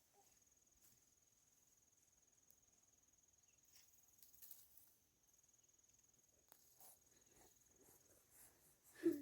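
Faint, steady high-pitched insect trill, breaking off briefly about halfway, with soft scattered rustles and clicks. A short, louder knock-like sound comes just before the end.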